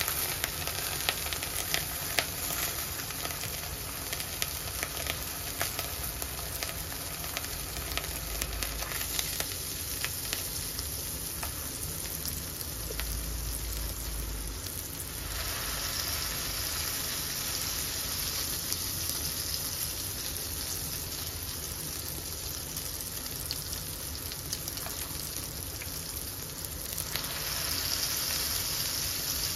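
Hamburger patty frying in a cast-iron skillet: a steady sizzle with crackling spatters of fat, turning brighter and louder about halfway through.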